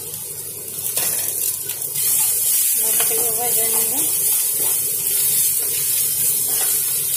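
Chopped onion and ginger-garlic paste sizzling in hot oil in a nonstick frying pan, stirred with a steel spatula. The sizzle gets louder about two seconds in.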